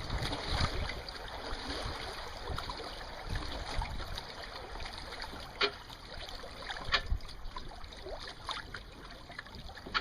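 Water sloshing and trickling against a small sailing boat's hull, with a low uneven rumble of wind on the microphone and a few sharp knocks, the clearest about halfway through and again about a second later.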